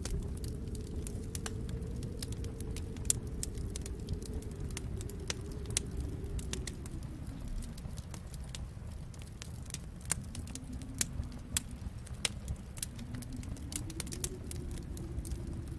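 Wood fire crackling in a fireplace, with irregular sharp pops and snaps over a low rumble that swells and eases twice.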